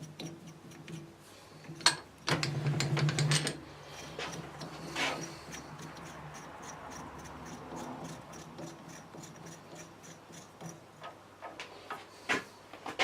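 Metalworking in progress: a machine tool's motor runs with a steady low hum while metal scrapes and clicks against metal, loudest for about a second near the start.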